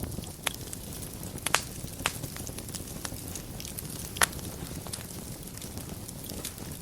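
Wood fire burning in a fireplace: a steady low rush with constant small crackles and a few sharp pops, the loudest about a second and a half in and just past four seconds in.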